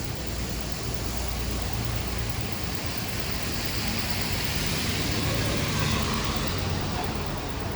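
Rainy city street ambience: a steady wet hiss with traffic, swelling as a car passes on the wet road about five to six seconds in.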